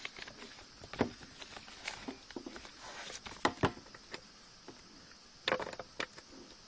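Irregular knocks, clicks and rustling of boat gear being handled, with a cluster of louder knocks about halfway through and another near the end; no engine running.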